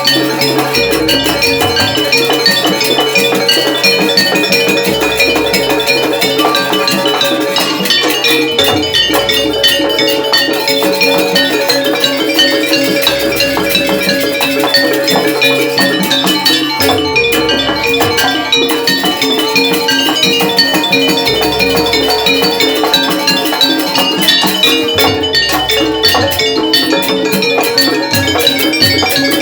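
Live Jaranan gamelan music: metal-keyed percussion plays a dense, fast run of ringing notes over drums, with a low booming stroke every few seconds.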